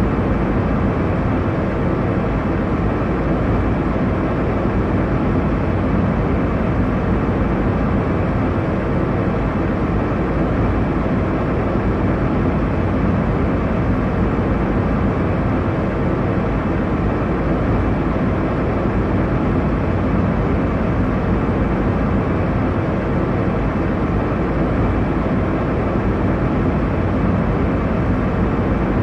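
Steady airliner cabin noise: an even, deep rush of engine and airflow noise that does not change.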